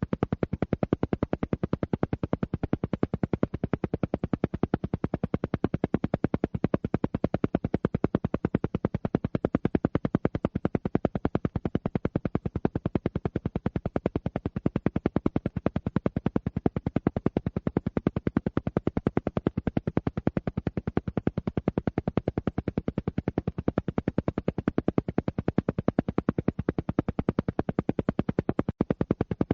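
Alpha-wave brainwave-entrainment audio: a rapid, perfectly even pulsing that repeats unchanged, like an isochronic tone.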